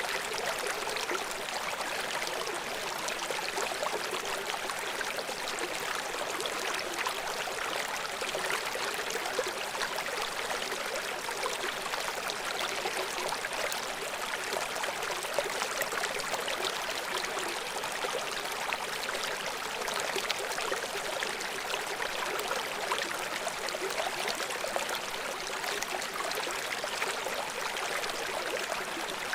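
River water flowing over rocks: a steady rush with fine splashing and little deep rumble.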